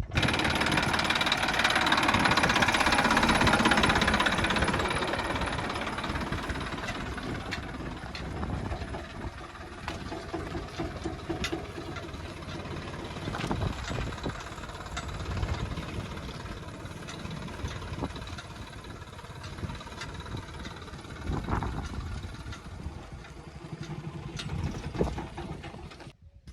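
Heavy diesel engine of the earthmoving or farm machinery running. It is loudest for the first few seconds, then settles to a lower, uneven level.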